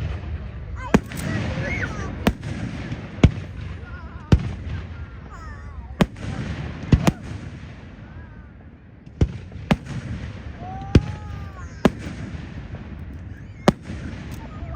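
Fireworks display: about a dozen sharp bangs of shells bursting overhead at irregular intervals, over the voices of a crowd of onlookers.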